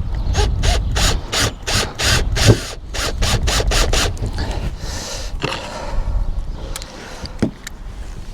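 Hand ratchet tool clicking as it turns screws into solar panel mounting brackets, about four clicks a second for the first four seconds, then a few scattered clicks.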